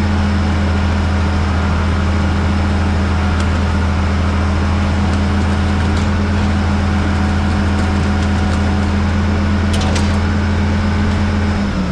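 A large engine running steadily at a constant speed, with an even low hum, then falling in pitch as it slows just before the end.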